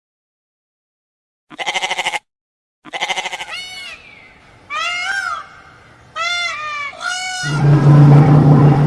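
Goats bleating: a few short, quavering bleats, then several rising-and-falling calls, and near the end a louder, deeper drawn-out call.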